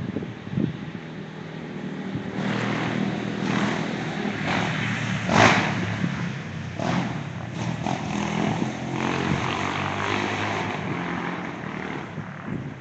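An engine running steadily, with louder rushes of noise coming and going over it.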